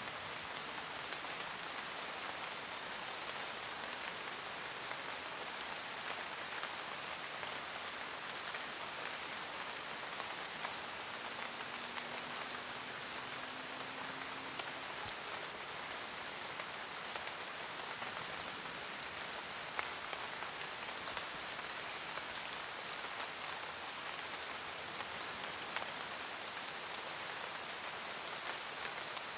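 Steady rain falling in a forest, an even hiss with scattered individual drops striking close by.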